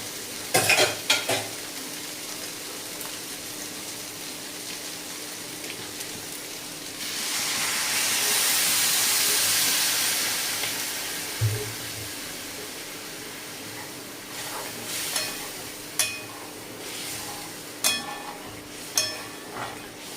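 Spiced chicken mince frying in a hot kadai, with a metal spatula scraping and clinking against the pan. About seven seconds in, a loud sizzle swells and dies away over a few seconds as water hits the well-fried mince and hot oil.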